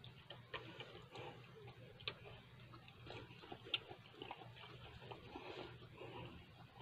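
Faint close-up chewing of a mouthful of ham and bread: soft wet mouth clicks and smacks at an irregular pace, with one sharper click a little under four seconds in.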